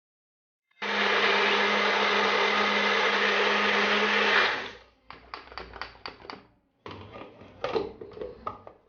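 Magic Bullet blender starts about a second in and runs steadily for roughly four seconds blending a thick breakfast shake, then winds down. It is followed by a quick run of light clicks and knocks.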